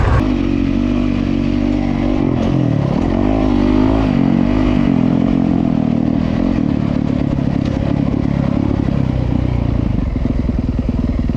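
Honda CRF450RWE motocross bike's 450 cc single-cylinder four-stroke engine being ridden, its pitch rising and falling with the throttle. About ten seconds in it drops to a lower, evenly pulsing engine speed.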